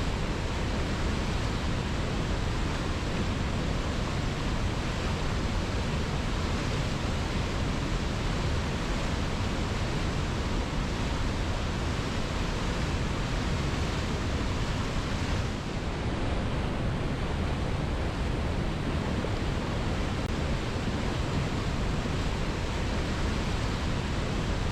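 Waterfall pouring steadily: an even, unbroken rush of falling water, heavy in the low end, with a brief dip in level about two-thirds of the way through.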